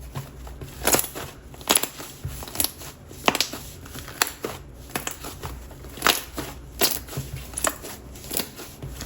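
Soft DIY clay slime being squished and poked by hand, its trapped air popping in sharp, irregular clicks and crackles about once or twice a second.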